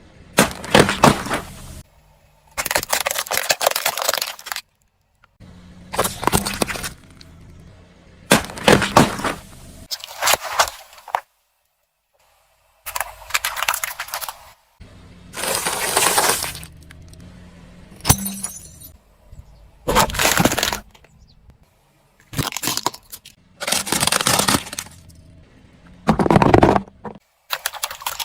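Car tyre rolling over and crushing brittle objects, with cracking and breaking. It comes as about a dozen short bursts that start and stop abruptly, separated by short gaps.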